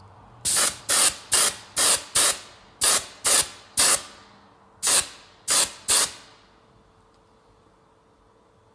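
Compressor-fed air spray gun spraying thinned ceramic paint in about eleven short, quick bursts, each cutting in sharply and fading fast; the light dusting bursts of first coats, so the paint does not melt the filler beneath.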